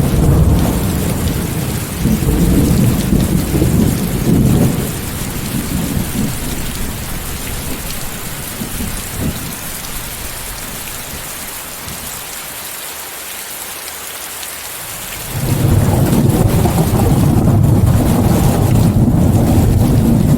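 Steady rain hiss, mixed with white noise, under rolling thunder. The thunder rumbles loudly for the first few seconds, dies away, then a new peal starts abruptly about fifteen seconds in and keeps rumbling.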